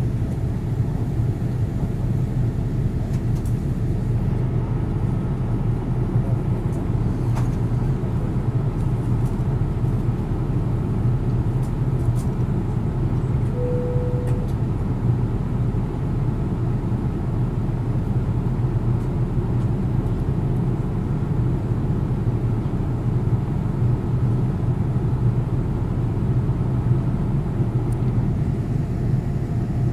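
Steady roar of a Boeing 787 Dreamliner's jet engines and airflow heard from inside the cabin in flight, a deep, even rumble that does not change. A short single tone sounds once about halfway through.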